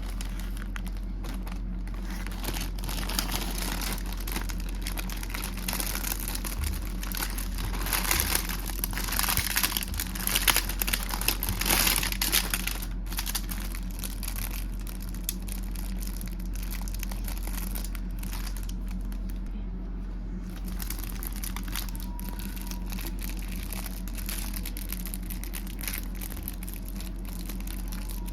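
Plastic snack packaging crinkling as it is handled and opened, busiest and loudest in the middle, over a steady low background hum.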